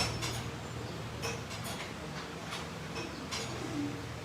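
Scattered light clicks and taps of hand tools on car parts during suspension repair work, at uneven intervals of roughly one a second, over a steady low hum.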